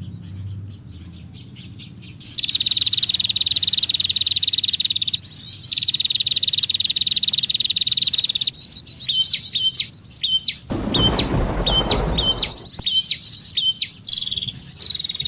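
Bird song, likely a recording played as a lure to draw birds in for trapping: two fast, even trills of about three seconds each, then a run of short, rising chirps. A brief rushing noise sounds midway through the chirps.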